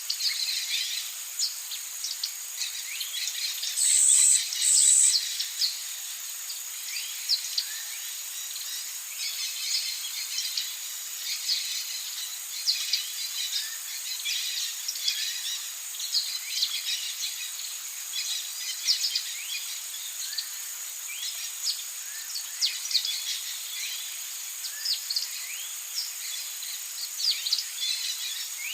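Rainforest ambience: a steady high-pitched insect drone under many quick bird chirps, with two brief, loud, very high buzzing bursts about four and five seconds in.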